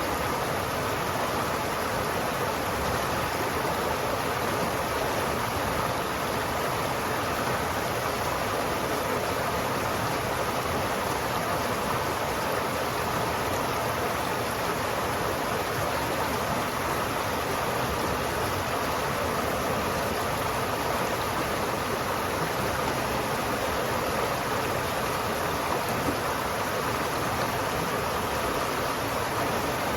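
River water flowing steadily, an even rushing noise with no change.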